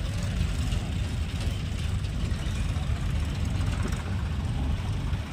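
Diesel tractor engines idling with a steady low rumble.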